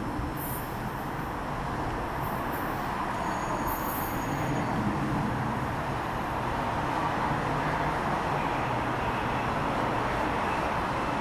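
New Jersey Transit Arrow III electric multiple-unit train approaching, a steady running noise of wheels and motors growing slightly louder as it nears.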